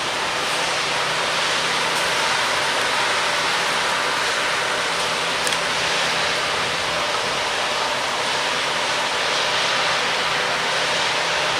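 Steady, loud hiss of noise with a faint low hum under it.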